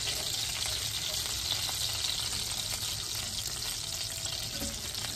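Hamburger patties and onions sizzling in hot grease in a cast-iron skillet: a steady frying hiss.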